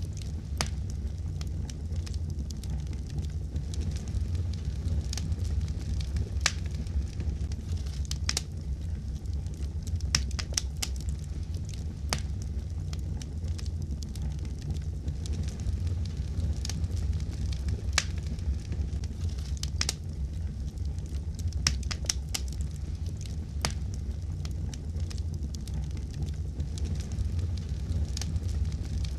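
Fireplace fire crackling: a steady low rumble with irregular sharp pops and snaps, a few every couple of seconds.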